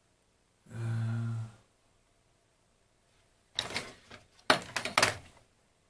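A man's short closed-mouth "hmm" held for under a second, then a quick cluster of clicks and knocks from small objects being handled on a workbench about halfway through.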